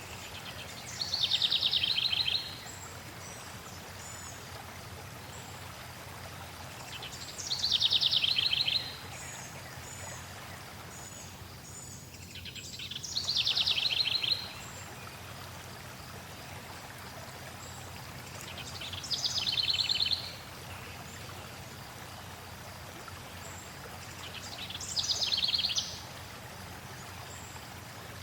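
A songbird sings the same short, rapid trill five times, about every six seconds, each phrase lasting about a second and a half. Faint high chips come between the phrases. Under the song, flowing water keeps up a steady rush.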